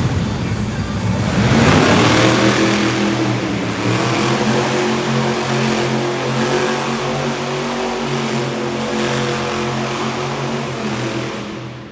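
Monster truck engine revving up hard about a second and a half in, then running at steady high revs, fading away near the end.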